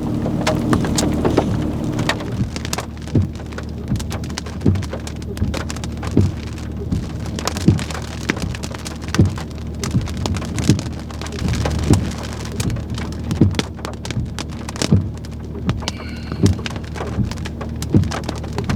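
Heavy rain falling, with a steady low hum underneath and a regular knock about every second and a half.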